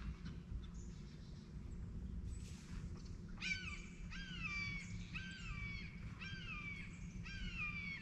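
A bird calling over and over: from about three and a half seconds in, a string of about six calls, one almost every second, each sliding down in pitch. Fainter chirps come before it.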